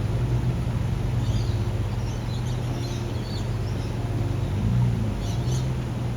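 Four-wheel-drive vehicle engine running steadily at low revs, its pitch rising and falling briefly about four and a half seconds in, with birds chirping at intervals.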